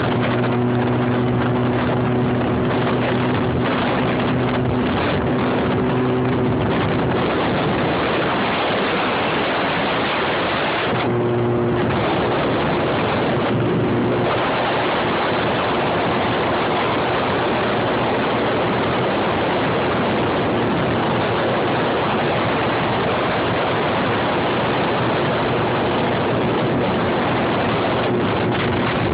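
Motorcycle engine running at a steady cruising speed, with heavy wind rushing over the microphone. The engine note dips for a few seconds about eleven seconds in.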